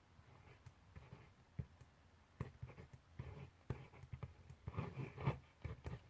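Pencil writing on paper: irregular short scratches and small taps, busier and louder in the second half.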